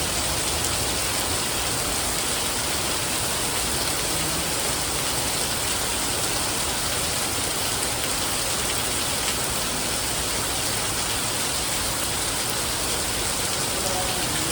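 Steady rain falling and pattering on surfaces, a constant even hiss with no let-up.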